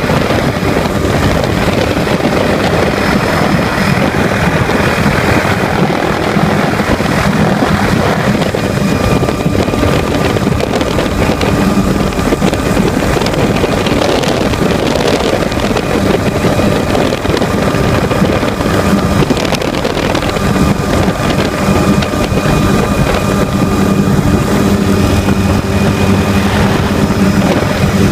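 Helicopter in flight: a loud, steady engine and rotor drone with a few steady whining tones over it.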